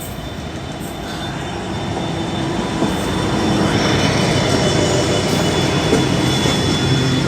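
Diesel-hauled freight train approaching and passing, its locomotive engine and wheels on the rails growing steadily louder, with a thin steady wheel squeal.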